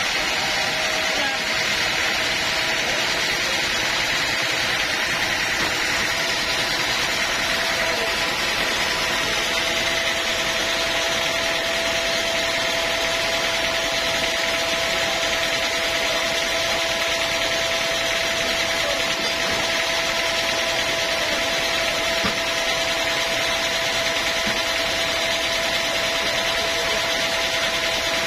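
A sawmill saw running steadily: a continuous machine noise with a steady whine that rises slightly in pitch in the first second.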